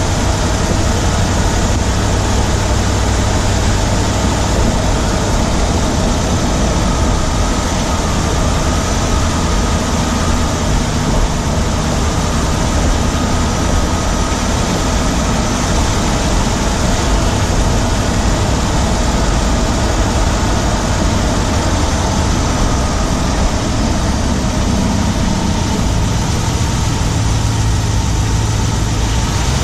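Ram 1500 Hemi V8 running under way, heard from right beside it in the engine bay on the driver's side, with a fast steady ticking in the engine noise; the owner wonders whether it is the familiar Hemi tick or something else.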